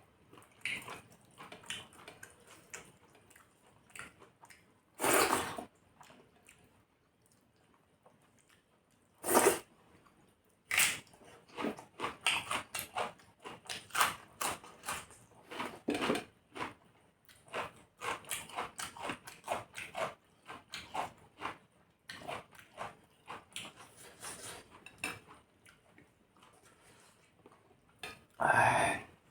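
A person eating chicken curry and rice close to the microphone: a run of wet chewing and mouth smacks, with three louder, noisier bursts about five seconds in, just under ten seconds in, and near the end.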